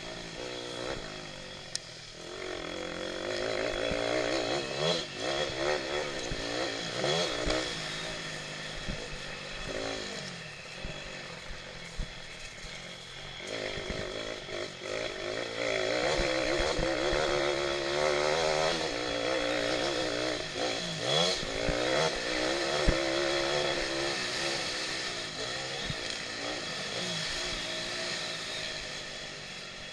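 Small single-cylinder pit bike engine racing hard, its pitch rising and falling again and again as it revs up and backs off.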